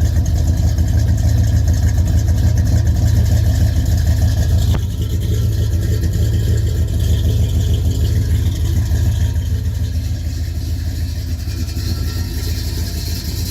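1969 Pontiac GTO Judge's 400 cubic inch V8 idling, heard through its exhaust as a steady, low-pitched sound. It becomes a little quieter about five seconds in.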